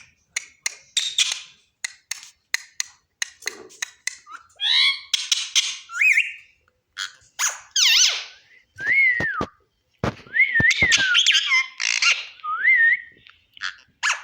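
Pet parrot calling with whistles that glide up and down in pitch and harsher squawking notes. A quick run of sharp clicks comes in the first few seconds, with a few dull thumps in the middle.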